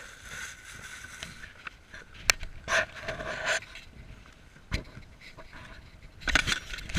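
Irregular scrapes, knocks and splashing from a kayak on the water: a sharp knock, a cluster of rustling splashes, another knock, and a louder burst near the end.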